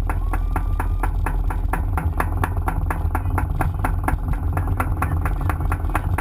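An engine idling with a steady, rapid knocking beat over a deep rumble.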